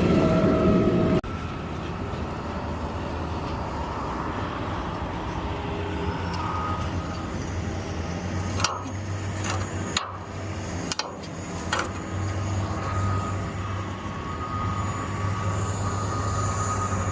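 Garbage truck running steadily with a low engine hum, with a few sharp clicks or knocks partway through. A louder stretch cuts off suddenly about a second in.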